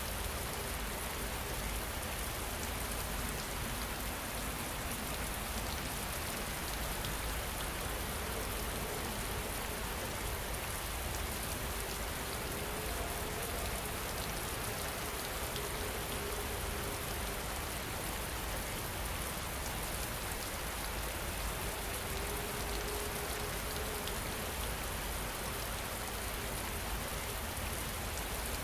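Steady rain falling, an even hiss of many drops with no letup. A faint held tone comes and goes now and then under the rain.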